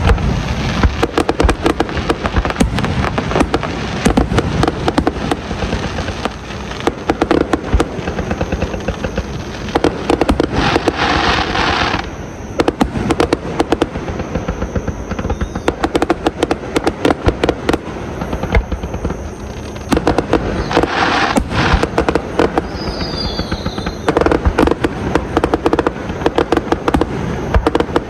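Fireworks going off: a dense run of bangs and rapid crackles throughout, with stretches of hissing crackle about ten seconds in and again about twenty-one seconds in, and a short falling whistle soon after.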